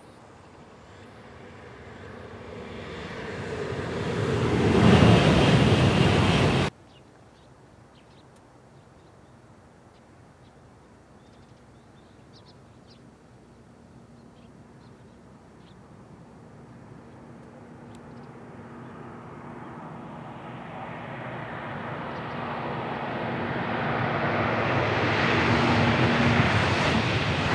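E3 series Komachi shinkansen trainset passing at speed, twice: a rushing sound swells to a peak and cuts off suddenly about seven seconds in. Then a second pass builds slowly, with a faint steady hum under it, to its loudest near the end.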